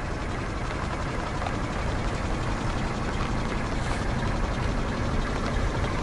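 Car engine running steadily at low speed, with a dense, even rumble.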